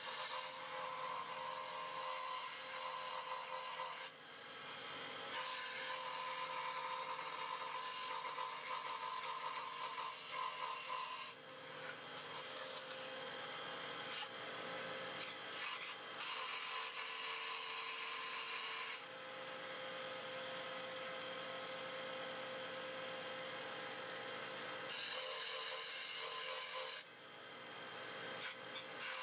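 A power tool working wood, running with a steady whine over a rough rasping, sanding-like noise. The sound changes abruptly several times as short clips follow one another.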